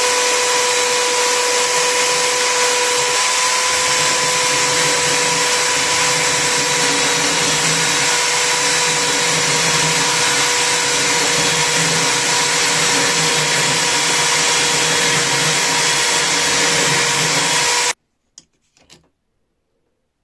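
Electric power tool motor running steadily with a constant whine, cutting off abruptly about 18 seconds in, then a couple of faint clicks.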